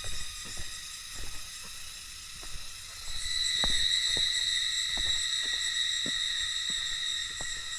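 Cicadas buzzing in a steady, high, ringing drone that swells louder about three seconds in, with scattered light taps underneath.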